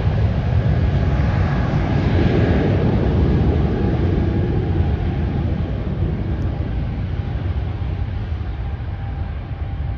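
Jet airliner engines giving a deep, steady roar that slowly fades as the aircraft moves away.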